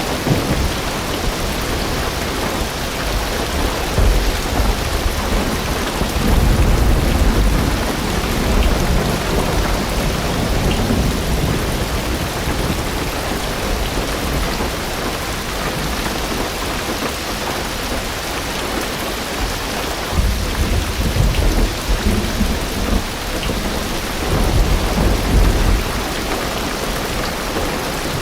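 Heavy rain drumming steadily on a car's roof and windows, heard from inside the car. Deep rumbles of thunder swell up several times.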